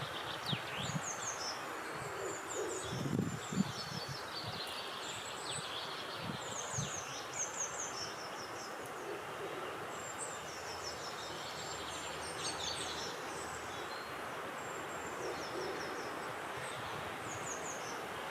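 Small songbirds singing outdoors: short, high phrases of quick descending notes repeated every couple of seconds, with a few low hooting calls in the first half, over a steady hush of wind.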